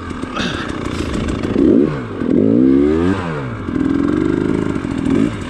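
Dirt bike engine revving up and down several times, with a held high rev about four seconds in, as the bike struggles and sinks in deep snow.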